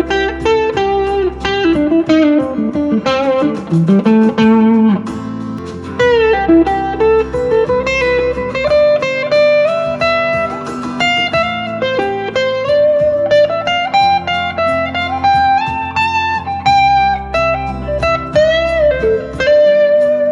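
Electric guitar with single-coil pickups (Squier Jaguar) played through a JHS NotaKlon overdrive, a Klon clone, with its gain at halfway, into a Vox AC10 combo amp: a lead line with frequent string bends and vibrato over a backing track with bass and drums.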